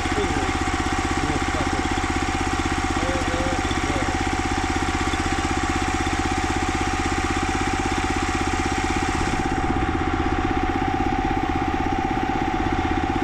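Small gasoline engine on a 32-ton log splitter running steadily.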